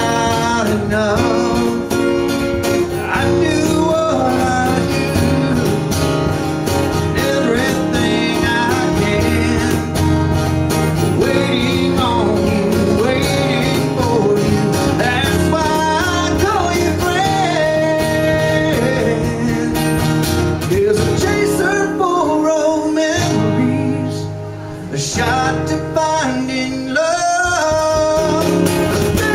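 Live country song: guitar accompaniment with cajon percussion under a singing voice.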